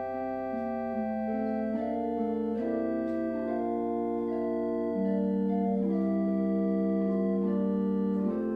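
Organ music: slow held chords, the notes changing every second or so, a little louder from about halfway through.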